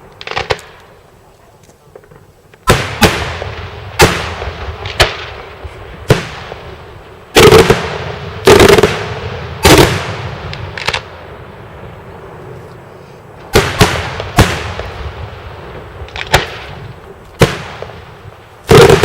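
Daytime fireworks going off: a string of loud, sharp bangs, roughly one a second, each ringing out in a long echoing tail. There is a short lull about two-thirds of the way through.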